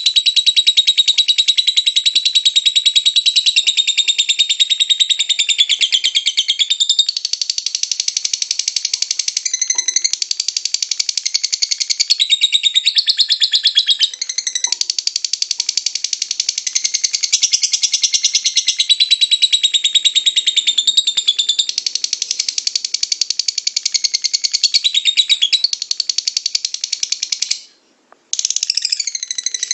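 Lovebird singing ngekek: a long, rapid, unbroken high-pitched chatter. It breaks off once for about half a second shortly before the end, then starts again.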